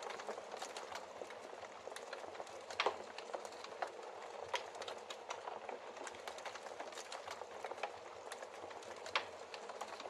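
Wood fire in a fireplace, burning logs crackling with a steady hiss and scattered sharp pops, the loudest about three seconds in, again near four and a half seconds, and near nine seconds.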